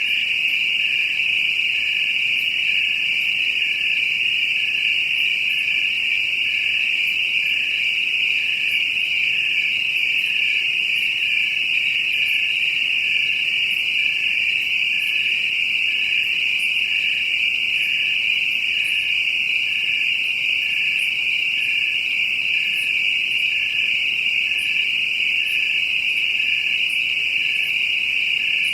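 Cricket chirping: a steady, high-pitched, unbroken trill, with a fainter pulse repeating about once a second beneath it.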